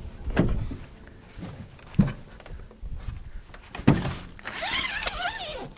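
Three dull thumps about two seconds apart, then a wavering high squeak near the end.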